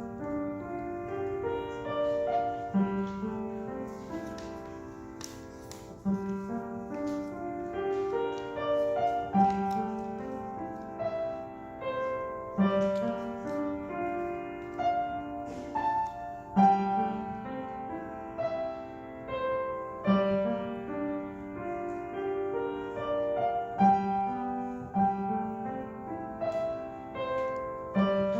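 Solo piano playing a piece of rolling broken-chord figures: a low note every second or two, each followed by a run of rising higher notes.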